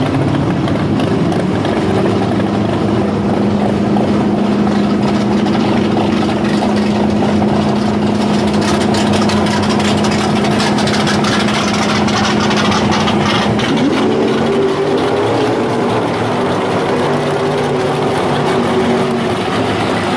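Modified muscle-car and hot-rod engines rumbling at low speed as the cars roll slowly past, first a pickup with a steady, even engine note. About two-thirds through, a second car's engine note rises and holds higher as it pulls up.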